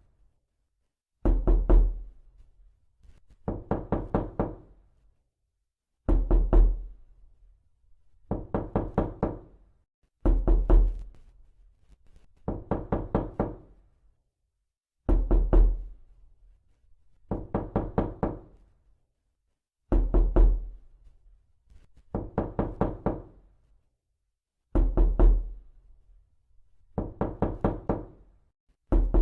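Knocking in quick bursts of about five or six raps each, repeating about every two seconds with short pauses between.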